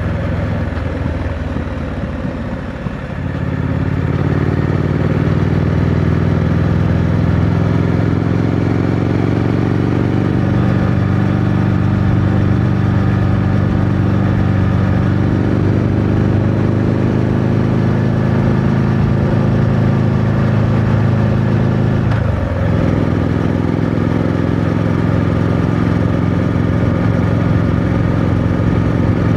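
2025 Triumph Scrambler 900's parallel-twin engine running through its stock exhaust while riding. It is lower and rougher for about the first three seconds, then pulls up and holds a steady drone. About 22 seconds in there is a quick drop and recovery in engine pitch, a gear change.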